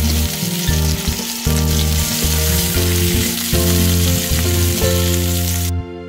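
Patties sizzling as they fry in hot oil in a frying pan, a steady hiss that cuts off suddenly near the end, with background music playing underneath.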